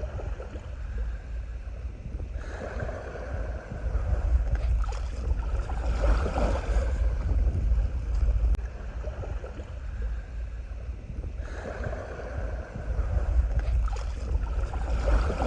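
Water rushing and splashing along a kayak's hull as it moves over the sea, over a steady low wind rumble on the microphone. The water noise swells up twice for several seconds at a time.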